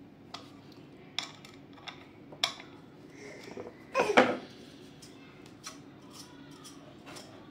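Light metallic clicks and taps of small parts and screws being handled, with a louder clatter about four seconds in.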